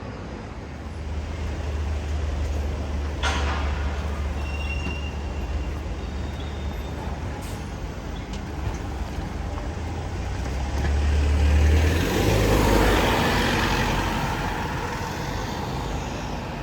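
A heavy road vehicle's engine rumbles nearby for most of the stretch. About twelve seconds in, a louder rush of noise swells and then fades, as the vehicle moves off or passes.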